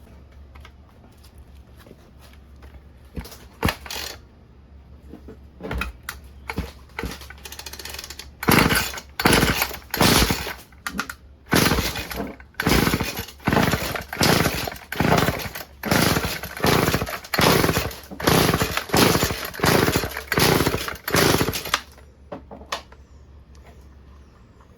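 Recoil starter of a Stihl FS36 two-stroke string trimmer being pulled over and over with the choke on: a few slow pulls, then about twenty quick ones in a row, each cranking the engine without it catching and running.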